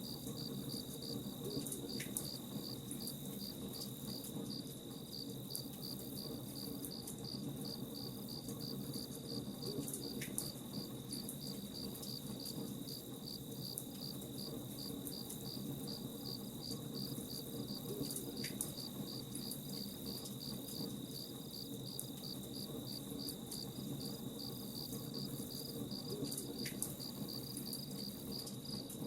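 Crickets chirping steadily at about two chirps a second, over the low rumble and faint crackle of a campfire.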